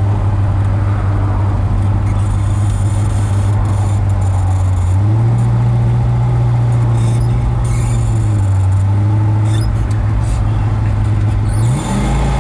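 1965 Pontiac GTO's tri-power 389 V8 pulling away at low revs, with its note rising about five seconds in, easing back a few seconds later, and climbing again near the end after a brief dip. The driver thinks he may have started off in third gear.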